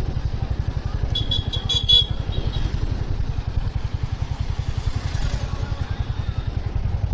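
Royal Enfield Hunter 350's single-cylinder engine running at low speed with a steady low thump. A brief high beeping sounds about a second in.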